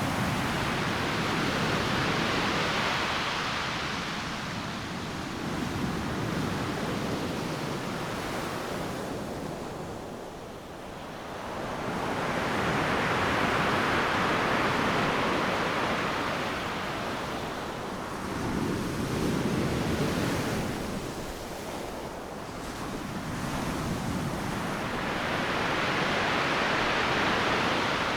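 Ocean waves breaking on a beach, the surf swelling and fading in three long surges about twelve seconds apart.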